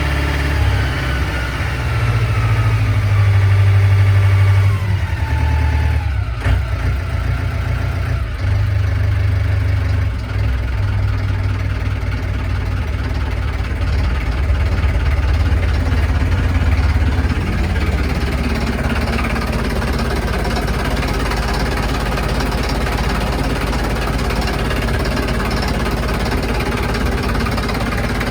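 Yanmar ZG26AP boat's engine running after start-up: its pitch falls over the first few seconds as the revs drop, then it settles into a steady idle.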